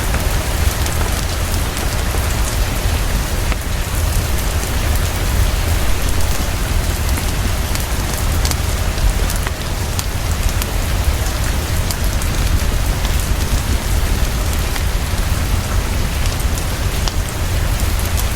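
Heavy, steady rainfall with a constant low rumble underneath and scattered sharp ticks of drops.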